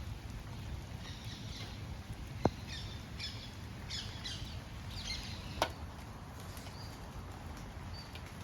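Small metal hand tools, hex keys from a borrowed set, handled and tried on a bicycle: two sharp clicks about three seconds apart, with light scattered rustling and faint high chirps over a steady low background.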